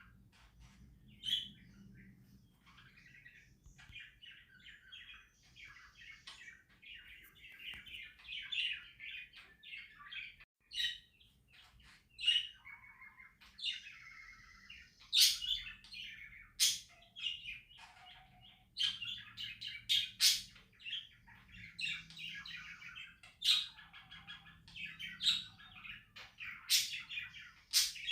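Pet budgerigars chattering and warbling without a break, with sharp, louder chirps every second or two, most of them in the second half.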